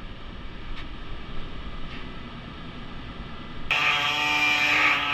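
Low shop background with a few faint clicks, then about three and a half seconds in a power cutting tool starts abruptly with a steady high-pitched whine as it cuts the quarter panel's sheet metal at the section line.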